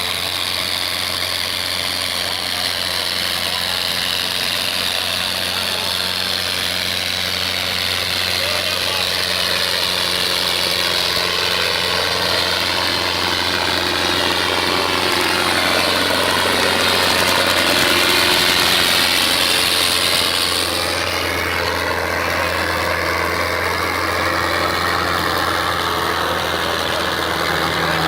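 Tractor diesel engine running steadily, growing louder to a peak about two-thirds of the way through, then dropping back.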